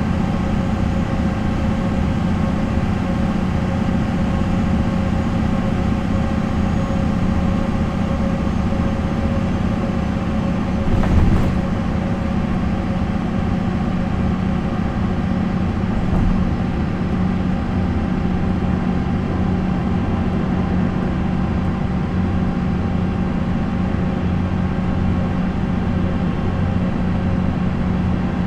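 Diesel engine of a MAN NL 263 bus (MAN D28 engine) running at a steady, unchanging speed. A brief knock comes about eleven seconds in, and a lighter one a few seconds later.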